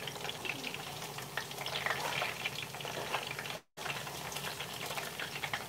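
Food frying in a pan with a steady sizzle, with occasional scrapes of a slotted spatula stirring and turning it. The sound cuts out completely for a moment about two-thirds of the way through.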